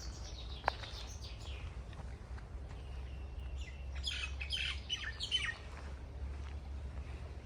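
Songbirds chirping, with a burst of several quick, falling chirps about four seconds in, over a steady low rumble.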